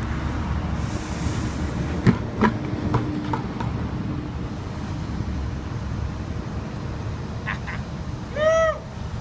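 Low steady rumble of a Volvo excavator's engine as its bucket dumps ice water: a brief rush of water about a second in, then several sharp knocks of ice. Near the end comes one loud, short yelp that rises and falls in pitch.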